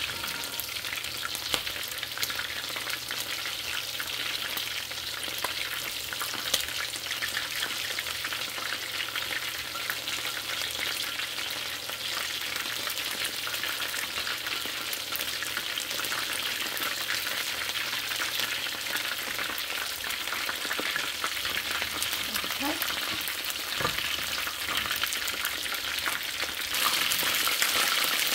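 Chicken wings frying in hot oil: a steady sizzle full of fine crackles and pops, with a faint low hum underneath that stops about twenty seconds in. The sizzle gets louder near the end.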